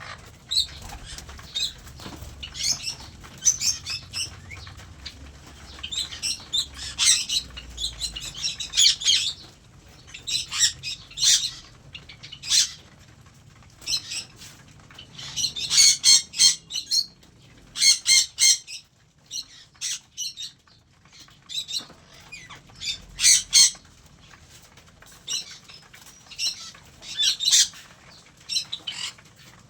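Flock of aviary cockatiels calling in short, sharp squawks and chirps, coming in bursts every second or two with brief lulls.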